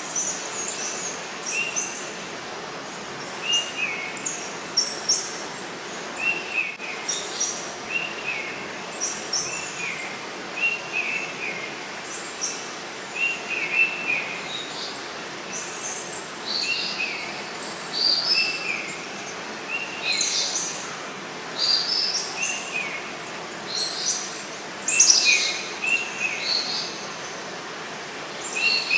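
Forest birds calling over a steady hiss of flowing water: one bird repeats short falling notes about once a second, while another gives higher, sharper chirps that come thicker near the end.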